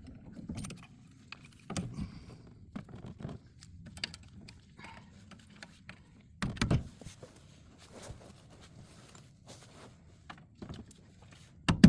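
Hand tools clinking and knocking against the steering knuckle while its bolts are worked loose to be punched out. There is a louder knock about halfway through and a quick run of about ten sharp strikes at the end.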